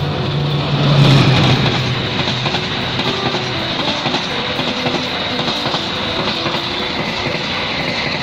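Diesel-hauled passenger train passing at speed. The locomotive's engine is loudest about a second in and fades, giving way to a steady rush of wheels on rail as the coaches go by.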